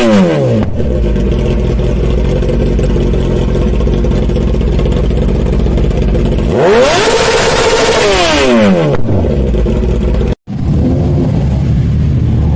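Kawasaki Ninja 1000's inline-four engine breathing through short aftermarket exhausts: a high rev falls back to a steady idle, then about six and a half seconds in it is revved hard, held for a moment and dropped back to idle. There is a brief gap near the end where the sound cuts out.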